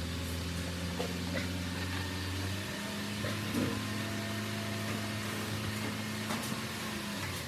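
A machine's electric motor running with a steady hum. Its pitch steps up slightly a few seconds in, and it stops shortly before the end.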